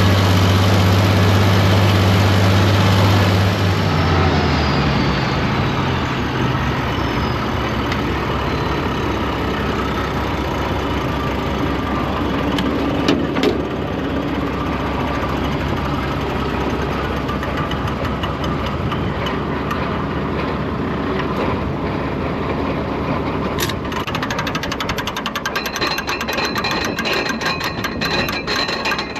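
Tractor engine running steadily. About four seconds in its speed drops and it settles to a lower, rougher rumble. Rapid ticking joins near the end.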